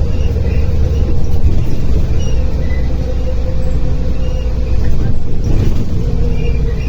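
Interior sound of a MAZ-105.465 articulated city bus driving: a steady low engine and road rumble with a held hum, and a brief rattle a little over five seconds in.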